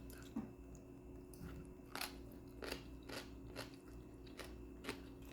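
Eating sounds at a meal: a string of faint, irregular crunches and clicks as food is chewed and handled.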